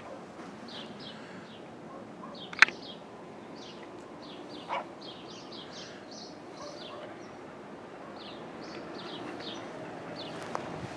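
Small birds chirping, many short high notes repeating over faint steady background noise, with one sharp loud click about two and a half seconds in.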